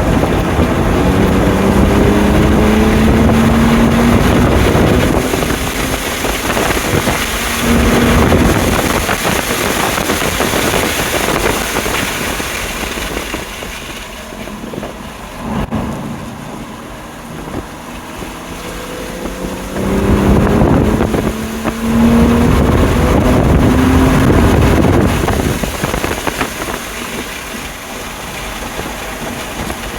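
BMW M2 Competition's twin-turbo straight-six under hard acceleration at the start, its pitch rising. It then lifts off and runs quieter with wind and tyre noise, and accelerates hard again about twenty seconds in before easing off near the end.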